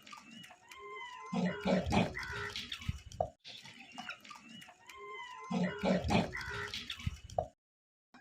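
Animal sounds: low grunts with high chirping calls over them. The same four-second stretch plays twice, then cuts off abruptly near the end.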